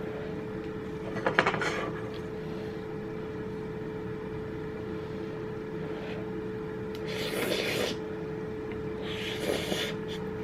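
Eating sounds over a steady hum: a sharp clack of a utensil on the dish about a second and a half in, then two short noisy scraping sounds near the end.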